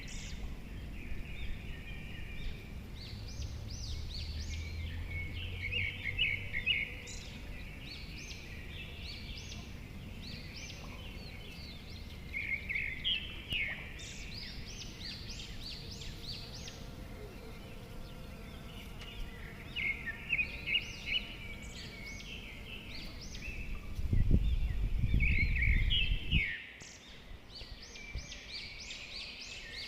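Songbirds singing outdoors, short chirping and trilling phrases repeating every few seconds over a low background hum. About 24 seconds in, a loud low rumble lasts about two seconds and then cuts off suddenly.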